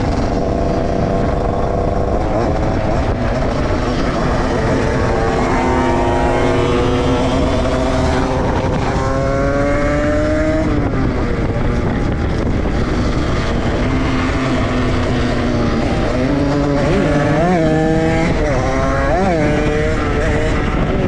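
Dirt-bike engines running under way, the pitch climbing several times as the bike accelerates through the gears, then dropping off about halfway through. Near the end come several quick revs up and back down.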